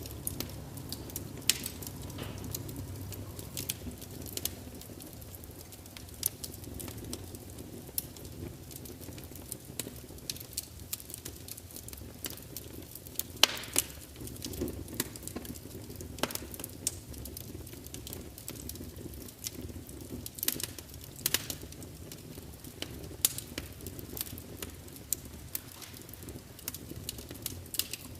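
Wood fire burning in a large fireplace: a steady low rumble of flame with frequent irregular crackles and pops, a few sharper snaps standing out.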